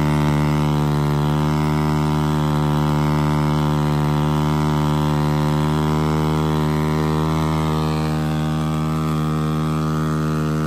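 Italika 250Z motorcycle engine held at steady revs through a burnout, the rear tyre spinning on the pavement. The engine note stays constant throughout.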